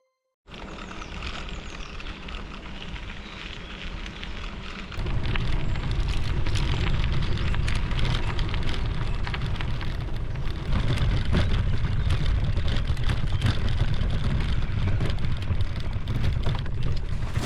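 Wind rushing over the microphone and the rolling rattle of a moving bicycle, with many small clicks through the noise. It starts about half a second in and grows louder and heavier at the bottom about five seconds in.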